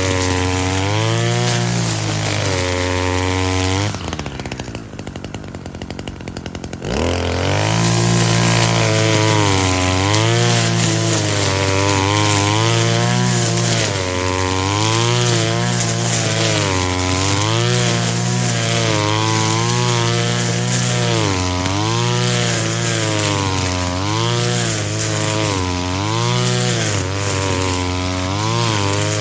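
Two-stroke brush cutter engine running at full throttle, its pitch dipping and rising every second or two as the blade sweeps through grass. About four seconds in it drops to idle for a few seconds, then revs back up and carries on cutting.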